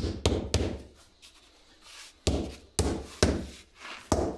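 A mallet knocking a flagstone down into its mortar bed: heavy knocks, three in quick succession, then a pause, then four more about a second later. The stone is being bedded so that no voids are left beneath it.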